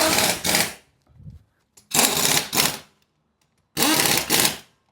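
Four loud bursts of hissing noise, each under a second long, separated by short silences.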